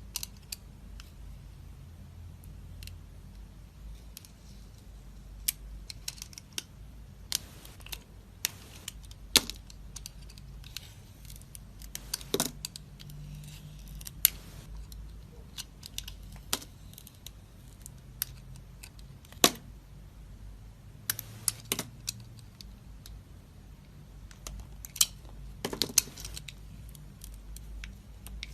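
Knife cutting dry soap: scattered crisp crunches and sharp clicks at irregular intervals.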